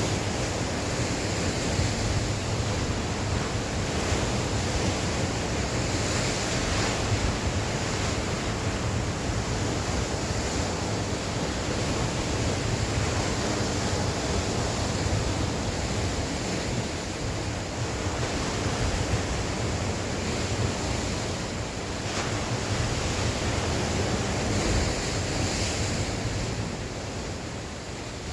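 Sea surf washing on the shore, a continuous rush that swells now and then as waves break. Wind buffets the microphone with a low rumble underneath.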